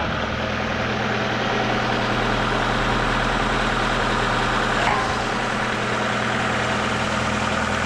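TimberKing 2520 portable sawmill's engine running steadily, driving the hydraulics used to raise and level the mill. A short knock sounds about five seconds in.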